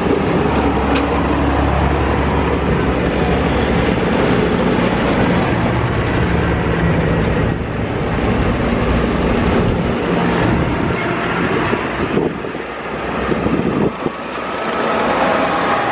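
Engines of tractors and lorries running as they drive past in a procession: a steady engine drone with a heavy low rumble, easing off a little near the end.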